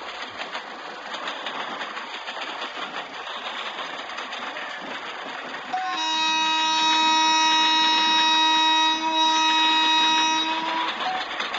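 Train running noise, a steady rushing rattle, then about six seconds in a WAP-4 electric locomotive's horn sounds one long steady blast of about five seconds.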